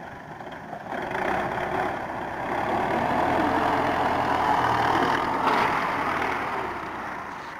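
Diesel engine of a Russian-built tractor working its front loader bucket while filling a trailer with soil. The engine noise rises about a second in and stays up for several seconds, with a rush of noise about five and a half seconds in before it eases off.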